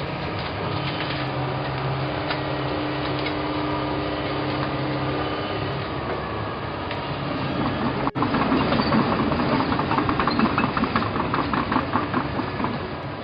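Track excavator's engine running steadily. About eight seconds in, a sudden cut brings a louder, fast rhythmic clatter.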